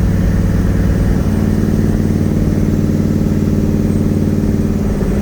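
Twin-turbo Nissan VK56 V8 in a 300ZX running at a steady engine speed, heard from inside the cabin; its note shifts slightly about a second in.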